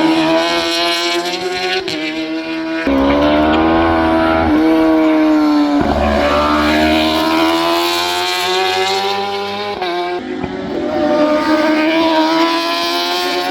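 Racing superbikes at full throttle, engines screaming, each pitch climbing and then dropping sharply at every upshift, five times over.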